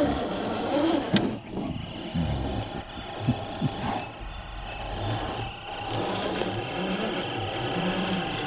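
Scale RC crawler trucks' electric motors and geared drivetrains whining as they crawl over rough ground, the pitch rising and falling with the throttle. A sharp click about a second in.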